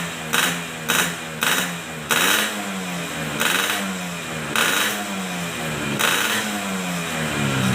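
Yamaha RX-King 135cc two-stroke single with a gutted, open 'bobokan' exhaust, revved in repeated throttle blips, the engine pitch rising and falling with each. The blips come about every half second at first, then further apart.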